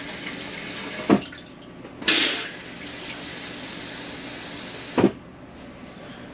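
Water running in a small RV bathroom, either from a tap or from the toilet's flush. It runs for about the first second and stops with a knock, then gushes on again about two seconds in and stops with another knock about five seconds in.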